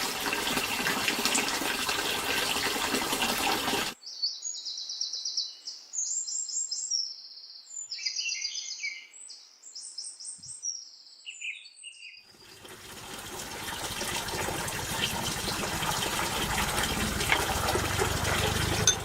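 A steady background hiss, cut away for about eight seconds of small birds chirping, quick high chirps in short runs, before the hiss comes back.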